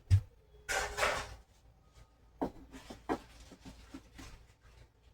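Handling of tools and door hardware during a door-hardware install: a sharp knock, a brief scraping rub about a second in, then a few light clicks and taps.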